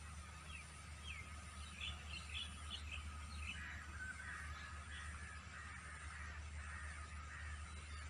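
Birds calling: a few short high chirps in the first three seconds, then a longer run of lower chirping calls for several seconds, over a faint steady low hum.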